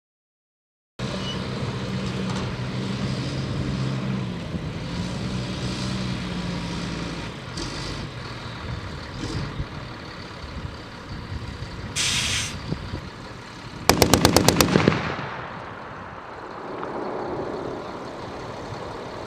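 A vehicle engine running steadily, a short hiss, and then one quick burst of about ten rounds from a machine gun, its report fading out afterwards.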